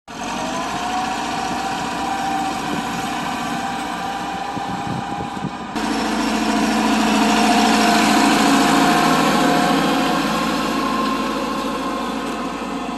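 Massey Ferguson 385 tractor's diesel engine running steadily, with an abrupt jump to a louder, fuller sound a little before halfway through.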